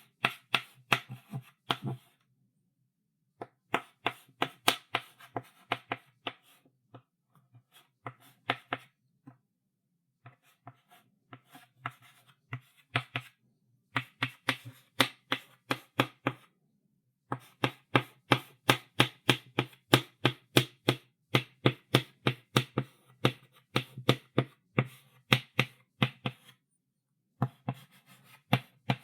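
Chalk writing on a blackboard: quick runs of sharp taps and short strokes as letters are written, broken by brief pauses between words.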